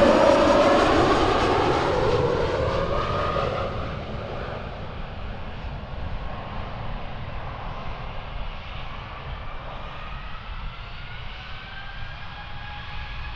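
Embraer E190 jet airliner's turbofan engines passing close by, their whine falling in pitch and fading over the first four seconds, then a fainter steady engine whine as the jet moves away.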